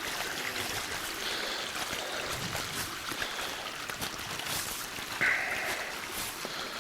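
Rain runoff floodwater rushing through a yard in a fast, rapids-like stream, a steady rush of water. A brief louder burst of noise comes about five seconds in.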